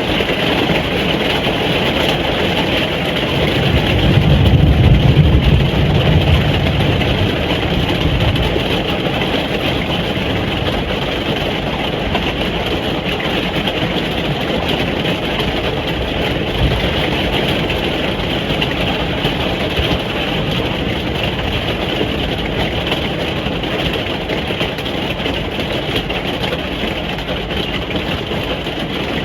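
Steady rain falling on a caravan roof, heard from inside as an even hiss. About four seconds in, a low rumble swells for a few seconds and fades.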